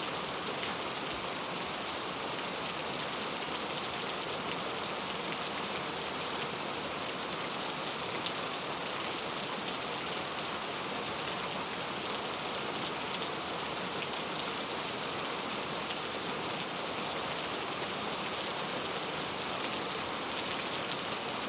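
Steady rain falling, a continuous even hiss with scattered fine drop ticks and no thunder.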